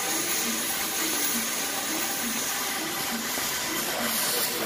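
A steady, even hiss with a few faint, short sounds underneath.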